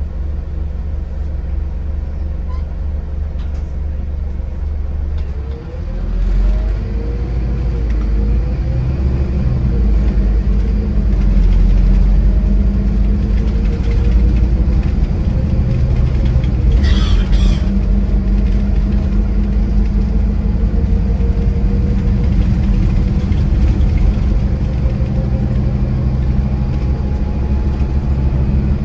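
Scania Irizar i4 coach running at low speed, then pulling away about six seconds in, its engine and driveline note rising as it accelerates. There is a brief hiss around seventeen seconds in.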